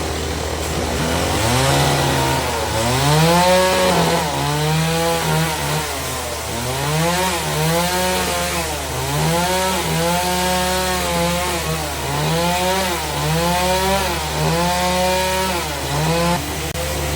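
Engine revving up and dropping back again and again, about once every second or so, over a steady low hum of running machinery in a sawmill.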